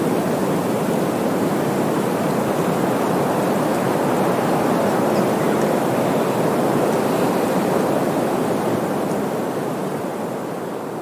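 Steady rushing noise with no rhythm or tone, slowly fading near the end.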